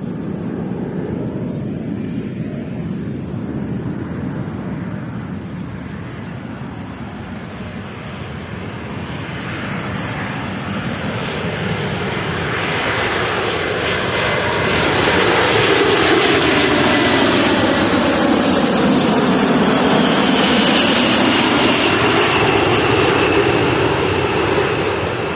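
Jet airliner flying low overhead on its landing approach. The engine noise swells to a peak over about fifteen seconds, then starts to ease, and a high whine near the peak drops slightly in pitch as the plane passes.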